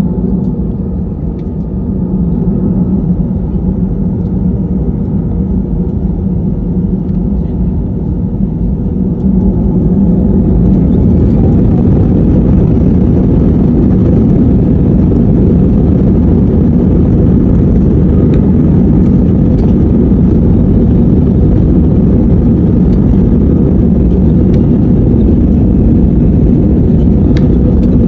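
Airliner jet engines during take-off: a loud, steady rumble that grows louder about ten seconds in as take-off thrust comes up.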